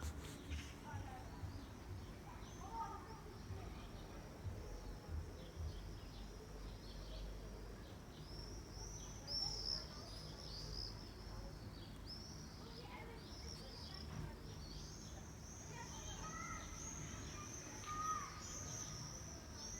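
Small songbirds chirping: many quick, high-pitched chirps and trills that grow busy from about halfway through, with a few lower calls near the end, over a steady low background rumble.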